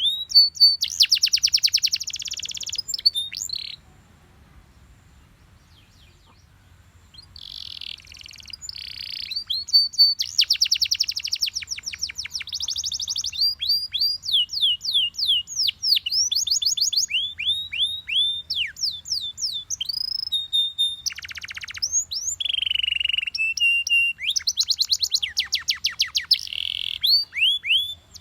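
Yellow Belgian canary singing: fast buzzy trills alternating with runs of repeated falling whistled notes, about three to four a second, and a short held note. The song breaks off for about three seconds near the start, then carries on.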